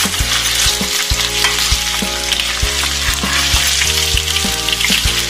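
Paneer cubes sizzling as they shallow-fry in hot mustard oil in a kadhai, with a metal spoon repeatedly clicking and scraping against the pan as they are turned.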